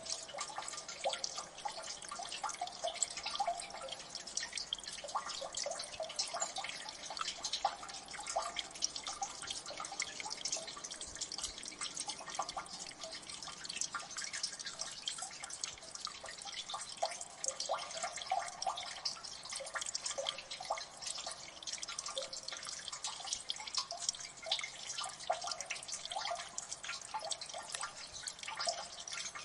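Water dripping and splashing in a gully: many quick, irregular drops falling continuously into water, sounding like a constant patter of small plinks.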